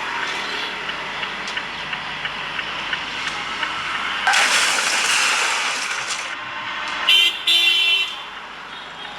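Road traffic noise with a sudden loud, noisy surge about four seconds in that fades over about two seconds. A car horn then honks twice near the end, the second honk longer.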